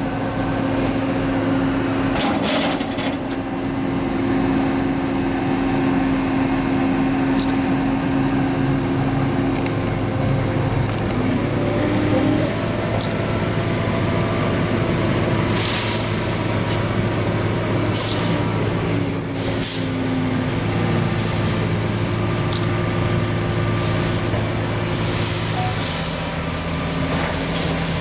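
Heavy diesel farm machinery running steadily: a tractor with a maize silage trailer arriving to tip, and the loading shovel. The engine note shifts about halfway through, and there are several short hisses of air in the second half.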